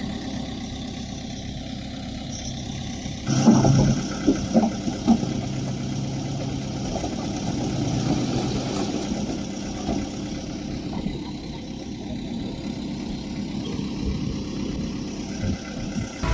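Diesel engine of heavy earthmoving machinery running steadily. About three and a half seconds in it gets louder, with a short run of clanks and knocks.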